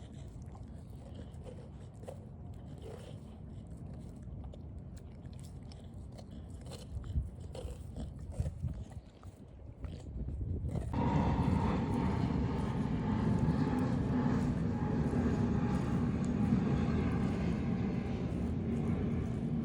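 A puppy chewing raw meat, soft irregular clicks and smacks, for about the first half. Then a louder steady drone from a distant engine, with a faint tone that slowly falls, takes over.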